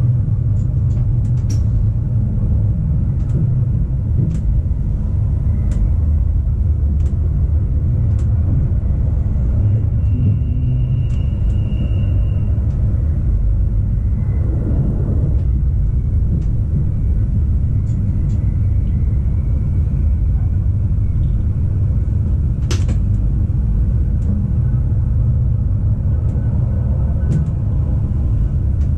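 Rhaetian Railway ABe 8/12 electric train running along the track: a steady low rumble with scattered sharp clicks, a brief thin high tone about ten seconds in, and a louder click a little past twenty seconds.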